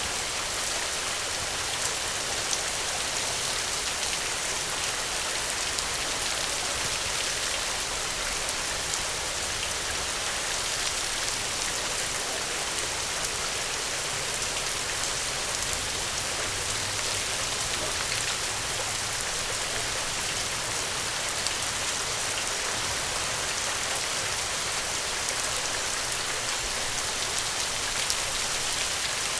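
Steady gentle rain falling, an even hiss with scattered small drop patters.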